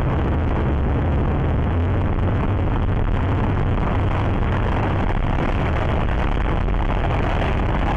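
Steady noise of a moving motor vehicle, engine and road noise with a strong low rumble, unchanging throughout.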